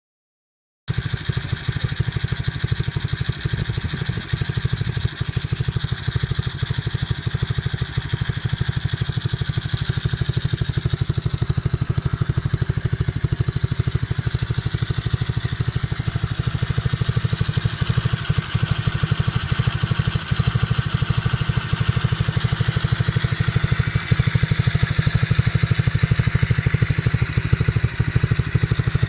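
Small 88cc single-cylinder pit bike engine running steadily at a low, even speed. The sound cuts in abruptly about a second in.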